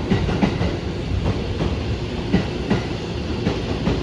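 JR 209 series 1000 electric commuter train running, its wheels knocking irregularly over rail joints above a steady rumble.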